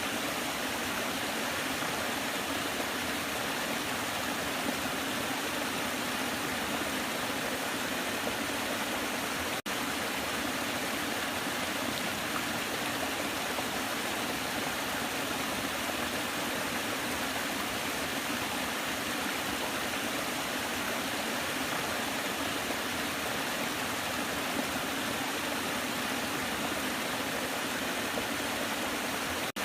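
Waterfall: steady rushing and splashing of falling water, with a momentary dropout about ten seconds in.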